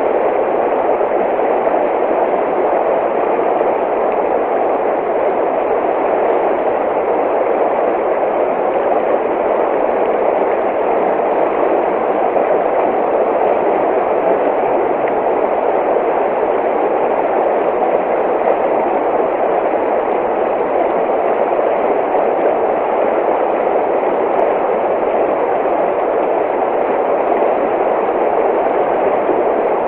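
Running water: a steady, unbroken rush of a stream or waterfall, with no drips or splashes standing out.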